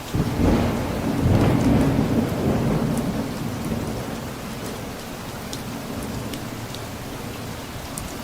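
A thunder rumble over steady rain: it breaks in suddenly just after the start, is loudest over the first couple of seconds, and fades away over the next few while the rain keeps falling, with occasional drips.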